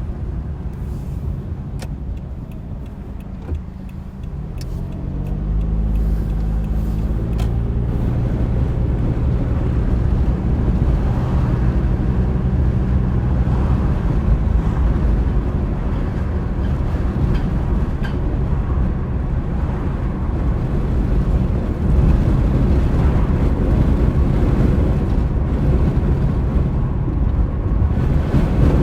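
Car engine running steadily, then its pitch rising as the car pulls away about five seconds in, followed by a steady low rumble of driving noise as the car travels at speed.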